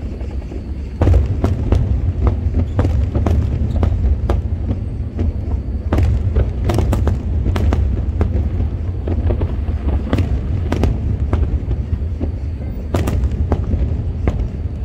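Aerial fireworks bursting in quick succession: a dense run of sharp bangs and crackles over a continuous deep rumble, with a loud burst about a second in.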